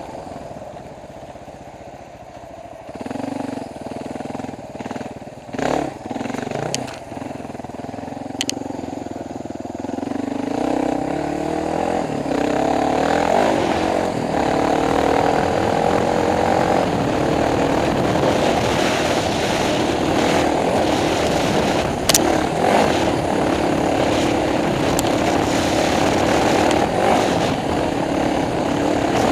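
Dual-sport motorcycle engine running at low revs, with a few sharp knocks. About ten seconds in it revs up and accelerates, then runs steadily at higher revs to the end.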